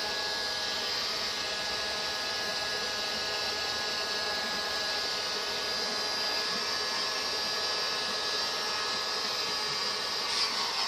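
A small electric motor with a fan, running steadily with an even whir. A couple of light knocks come near the end.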